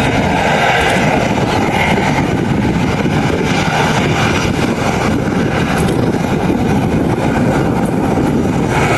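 Aircraft engine noise: a loud, steady rush with no break.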